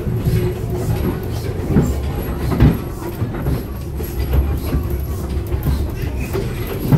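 A small steam train pulled by a 15-ton 0-4-0 locomotive is running, heard from an open passenger car. There is a steady low rumble of the wheels on the track, with scattered clicks and knocks; the loudest comes about two and a half seconds in and another near the end.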